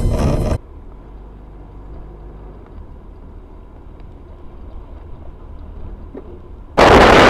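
Low, steady hum of a car's engine and road noise. A louder noise cuts off abruptly just after the start, and a loud rushing noise cuts in suddenly near the end.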